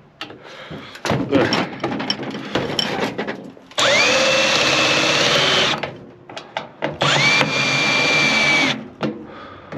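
Cordless drill/driver backing out microwave casing screws: the motor runs twice, about two seconds each time, whining up to speed and holding steady. Before that, the parts and tool clatter as they are handled.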